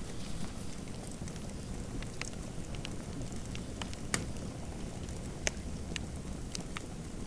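Fireplace fire crackling: irregular sharp pops and snaps over a steady low rumble, the loudest about four and five and a half seconds in.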